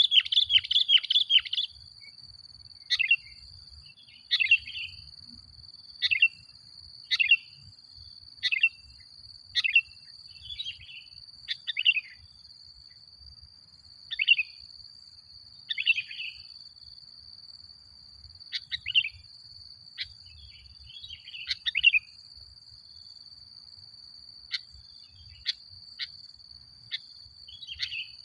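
Sooty-headed bulbul singing: a fast, dense burst of chattering notes at the start, then short chirping phrases every second or two, thinning out toward the end. A steady high-pitched whine runs underneath throughout.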